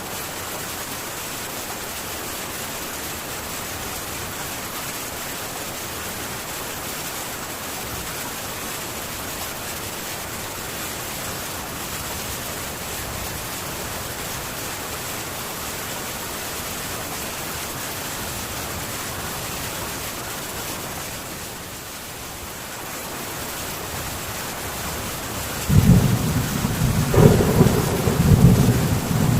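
Heavy rain hissing steadily on a metal tin roof. Near the end a sudden loud, low rumble of thunder breaks in and rolls on.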